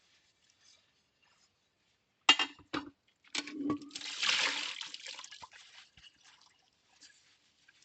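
Hand-washing ceramic plates: a sharp clink about two seconds in, followed by a couple of lighter knocks, then water splashes and trickles for about two seconds and fades away.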